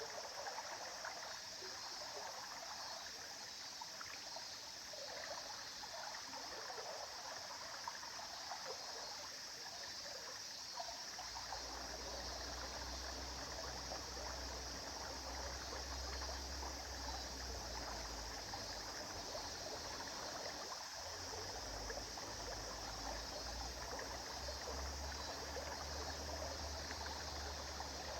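River water flowing and babbling steadily. A low rumble comes in under it about a third of the way through, breaks off briefly past the middle, then returns.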